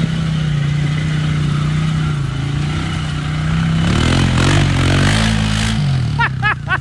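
Off-road vehicle engine running steadily, then revving up and down for a couple of seconds about four seconds in as it works up the climb. A few short high-pitched sounds come near the end.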